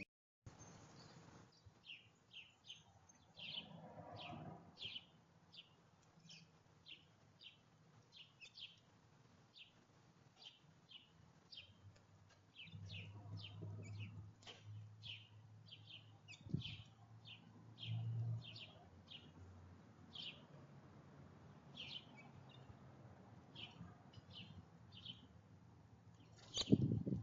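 Small birds chirping at a feeder: a steady run of short, high chirps, two or three a second. A single sharp thump near the end, louder than the chirps.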